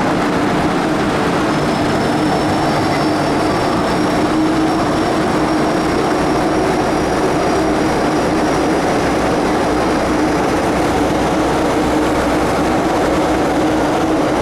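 MTR Metro-Cammell M-Train electric multiple unit running through a tunnel, heard from inside the car: a steady rumble of wheels and running gear with a low hum. A thin high whine comes in after about a second and a half.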